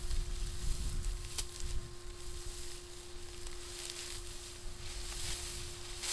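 Dry wheat stalks rustling and swishing as they are cut and gathered by hand, in repeated short swishes about once a second, over a low rumble of wind on the microphone and a steady faint hum.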